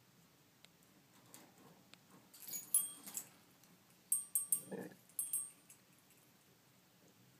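Quaker parrot giving short, sharp, high-pitched chirps and squeaks in two bouts, the first about two seconds in and the second about four seconds in, with a brief lower-pitched sound in the middle of the second bout.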